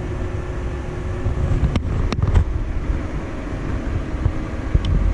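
Vehicle engine running and driving, a steady low rumble with a few sharp knocks or rattles about two seconds in.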